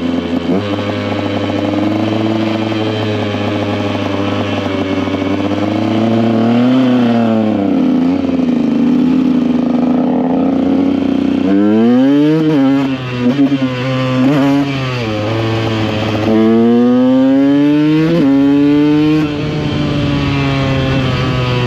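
KTM EXC 125 two-stroke dirt bike engine under way, running steadily at first. From about halfway in it revs up and down sharply several times, holds a high pitch for about three seconds, then drops back to a steady run.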